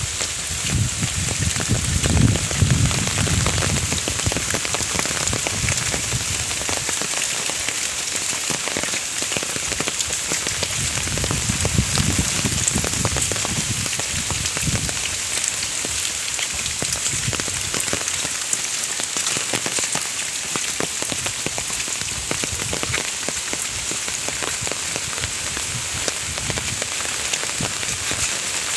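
Steady rain falling, with many individual drops ticking on surfaces. Low rumbles come and go, loudest about two seconds in and again around twelve seconds.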